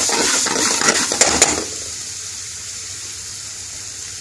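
Onions, garlic cloves and curry powder frying in oil in a steel pan, stirred with a metal spoon that clicks and scrapes against the pan. The stirring stops about a second and a half in, leaving a quieter steady sizzle.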